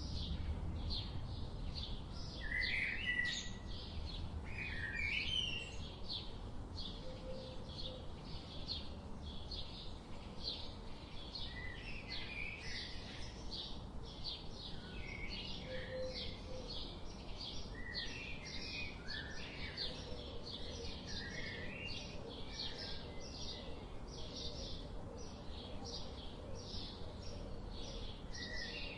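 Several small birds chirping and singing: a dense run of short high chirps, a few each second, with scattered lower warbling calls among them, over a steady low background rumble.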